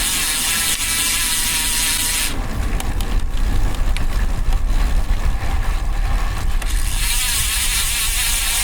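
Road bike riding with wind rumble and road noise on the microphone; the DT Swiss rear hub's fast, high freewheel buzz is heard while coasting for about the first two seconds, stops while pedalling, and starts again about seven seconds in.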